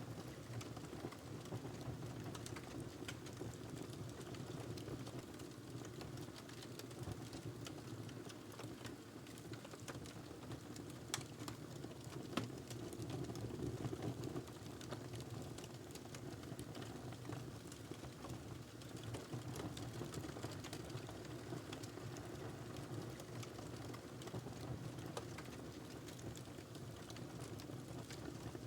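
Wood fire burning in a fireplace: a steady low rush of flames with scattered crackles and a few sharper pops from the burning log.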